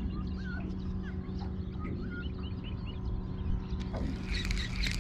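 Birds calling with many short, rising-and-falling chirps and whistles over a steady low hum. A brief rush of hissing noise with clicks comes about four seconds in.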